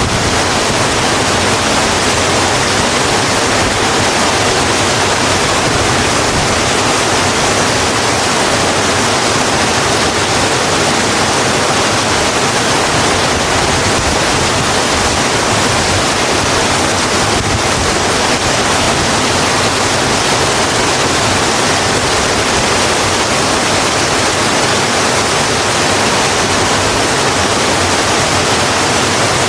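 Steady, heavy rain falling, an even hiss with no breaks or distinct drops standing out.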